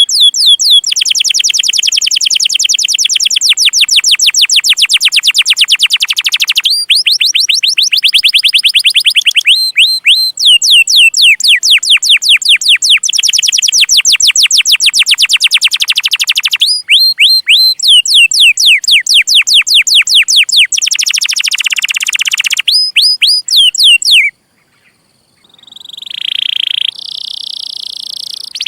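Domestic canary singing long chirping trills: fast runs of sharp, repeated downward-swept notes, changing speed from phrase to phrase. It breaks off briefly about three quarters of the way in, then resumes with a steadier, higher phrase.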